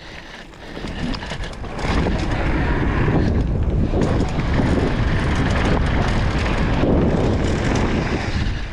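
Wind buffeting the microphone of a mountain bike rider's camera at speed, mixed with the rumble of tyres on the trail. It builds over the first two seconds, then holds loud and steady.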